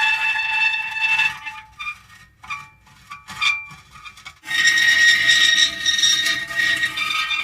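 Metal creaking: a long pitched creak that breaks up about a second in into short separate creaks with pauses between them. A steady pitched creak returns about four and a half seconds in.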